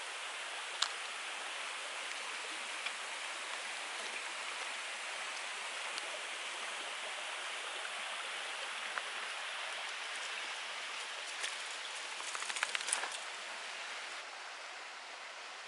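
Steady rushing of a mountain stream flowing over rocks. A few sharp clicks are heard over it, with a short cluster of crackly clicks a little before the end.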